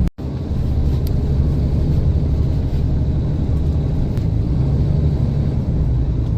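Propane delivery truck's engine and road noise, a steady low rumble heard from inside the cab while driving, with a momentary cut-out of the sound just after the start.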